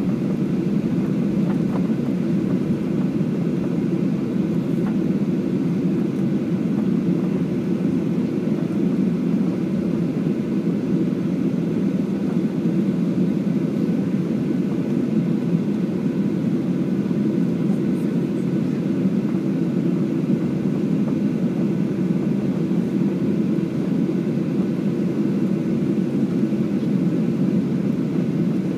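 Steady, low cabin noise inside a jet airliner taxiing after landing: the engines' hum and the cabin air system, unchanging throughout.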